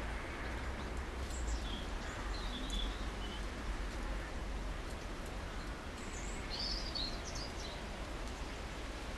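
Small garden birds giving a few brief high chirps in two short clusters, one early on and one about two-thirds of the way through, over a steady low rumble of outdoor background noise.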